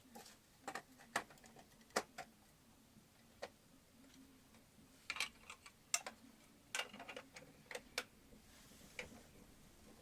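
Lego plastic pieces being handled and pressed together: irregular sharp clicks and clacks, some in quick pairs.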